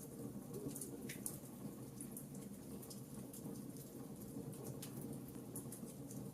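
Fireplace crackling: frequent small, sharp pops at irregular intervals over a low, steady rumble.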